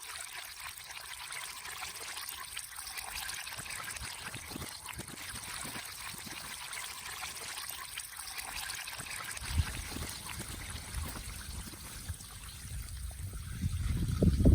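Water pouring and trickling steadily as the flooded well is drained. About two-thirds of the way through a low rumble comes in and grows louder near the end.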